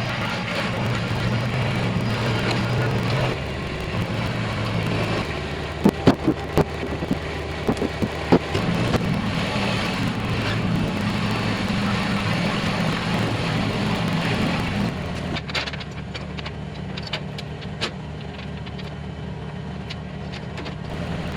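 Heavy machine's engine running steadily, with a handful of sharp knocks about six to eight seconds in. It settles lower and quieter about fifteen seconds in.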